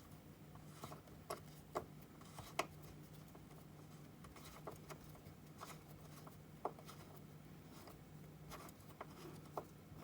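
Faint scattered clicks and light rubbing as a greased seat-mounting bolt is screwed back into an office chair's seat mechanism, over a low steady hum.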